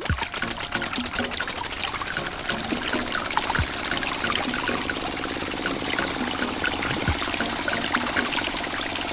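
Water pouring and trickling while a small motor runs steadily, with a soft low thud about every three and a half seconds.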